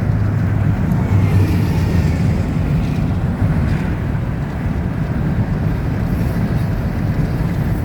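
BNSF freight train of tank cars passing close by, a steady heavy low rumble.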